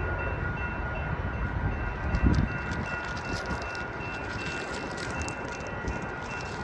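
Amtrak Capitol Corridor passenger train passing at speed: a steady rumble of wheels on rail, with sharp clicks and a louder burst about two seconds in. Steady high tones ring throughout.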